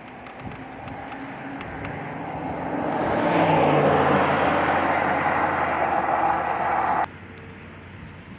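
A car's engine and road noise growing louder over about three seconds and holding, then cutting off abruptly about seven seconds in.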